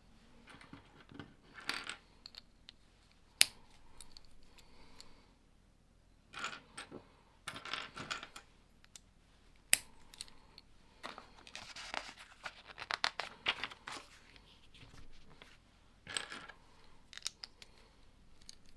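Small plastic Lego pieces rattling and clicking as they are picked through and handled, in several short clusters, with two sharp single clicks of pieces being pressed or snapped together.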